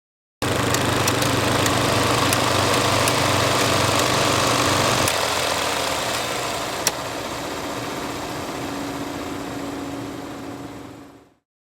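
Film projector running: a steady mechanical whir with scattered clicks. It starts suddenly, its low hum drops away about halfway through, there is one sharp click, and it fades out near the end.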